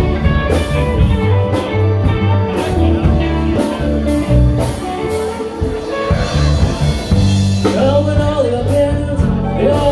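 Band playing live with guitar and drums, in a bluesy, country-tinged style; a singing voice comes in near the end.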